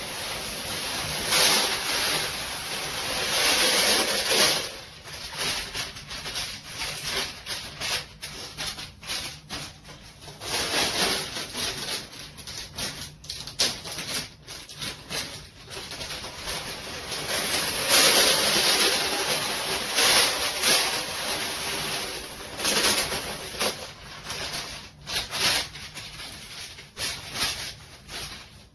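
Dry Breeze litter pellets poured from a bag into the top tray of a litter box: a rushing, rattling pour that comes in long spells with short stops and shakes in between, strongest at the start and again near the middle.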